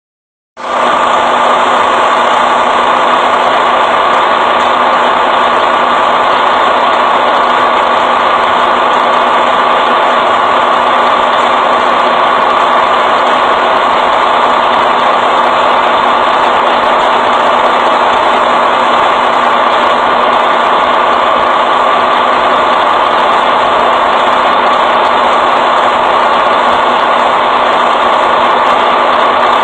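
A truck engine idling, a loud, unchanging running sound that cuts in abruptly about half a second in and holds steady throughout.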